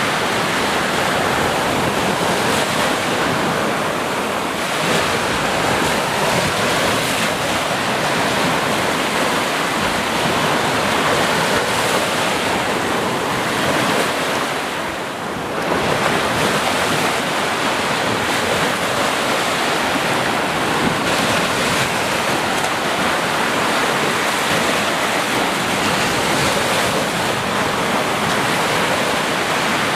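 Ocean surf: waves breaking and washing in a continuous dense roar, easing briefly about halfway through before the next wave surges back in.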